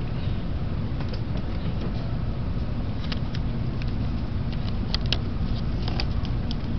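Cabin noise inside a Tokaido Shinkansen train car while it runs: a steady low rumble with scattered light clicks and ticks over the middle part.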